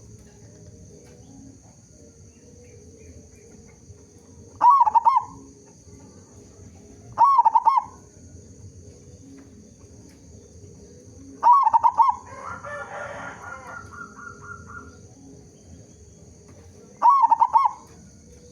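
Zebra dove (perkutut) calling: four short cooing calls a few seconds apart, the kind of call used as a lure to set other zebra doves calling. A quieter, longer call from another bird follows the third.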